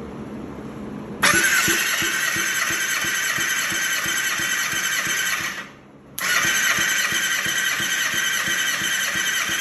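2007 Kawasaki ZX6R inline-four engine being cranked over for a compression test, spinning without firing: a high starter whine over a quick, even chugging of compression strokes. It comes in two bursts of about four seconds, the first starting about a second in, with a short pause between them.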